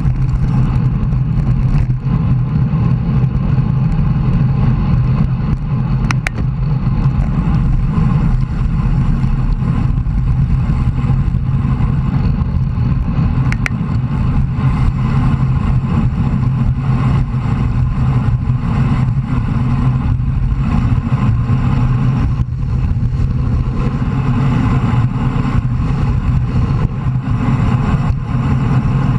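Steady wind rush and road noise on a bicycle-mounted camera's microphone while riding, a dense low rumble that runs on without a break.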